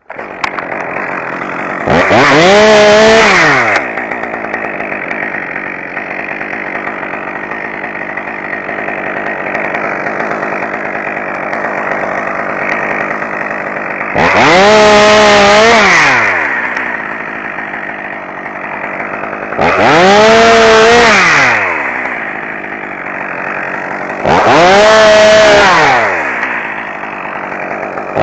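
Two-stroke chainsaw that starts up suddenly and runs at idle, revved up to full throttle four times for one to two seconds each, its pitch rising and falling with every burst.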